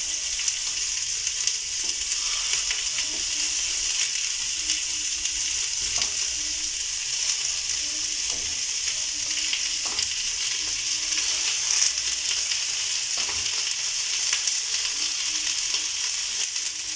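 Chicken mshikaki skewers frying in oil in a hot double-sided pan: a steady sizzle, with a few light knocks now and then.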